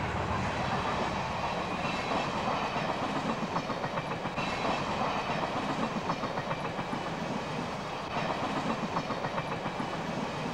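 A train rolling past, its wheels clicking rapidly and steadily over the rail joints.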